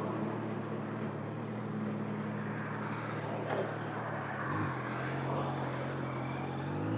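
Kawasaki Z900 inline-four engine running steadily at light throttle from the rider's seat, over wind noise. A little past halfway its pitch rises briefly and drops back.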